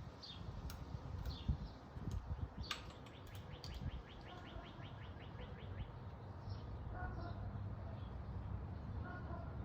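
Small birds chirping with short high calls, one giving a rapid trill about three seconds in, over a low steady rumble.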